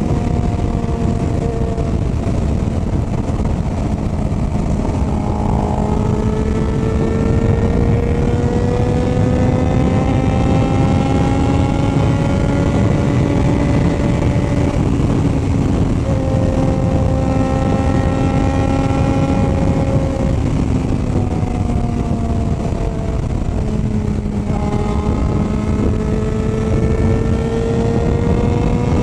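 Motorcycle engine running under way, its pitch climbing slowly as it pulls, dropping back and holding, falling off about two-thirds of the way through, then climbing again near the end, over a steady rush of wind on the microphone.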